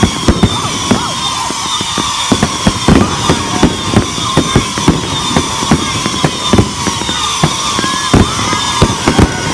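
Fireworks going off in a rapid, continuous string of loud bangs and crackles, several a second, with a steady high-pitched whine behind them.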